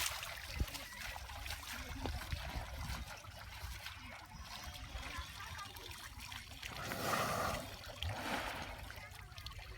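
Water splashing and trickling as an elephant is bathed in the river, with a louder rush of water about seven seconds in.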